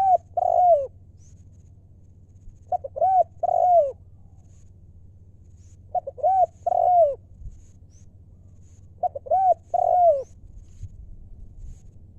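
Spotted dove cooing: a repeated phrase of a few short notes followed by two longer arched coos, given four times at about three-second intervals.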